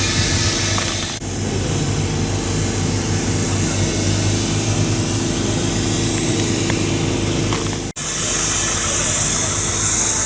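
An engine running steadily at an even low pitch under a loud hiss. The sound drops out sharply for a moment about a second in and again near eight seconds.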